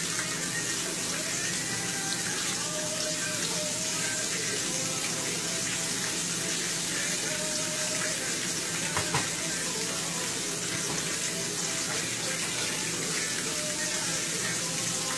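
Breaded ground-beef chicken fried steak patty sizzling steadily as it fries in hot oil in a skillet, with a single light knock about nine seconds in.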